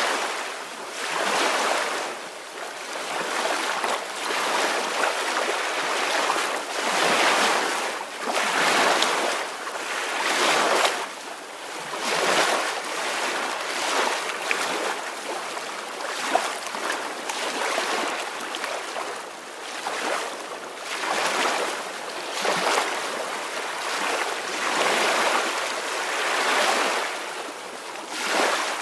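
Ocean waves washing in and out, a rushing hiss that swells and fades every couple of seconds.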